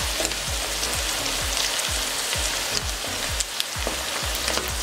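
Chickpeas, onion, tomato and green chillies sizzling in hot oil in a wok, a steady hiss with scattered crackles.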